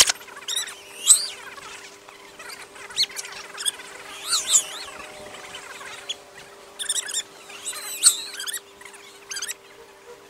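Birds chirping: short, irregular, high squeaky calls and warbles that come in little clusters, over a faint steady hum. A sharp click at the very start.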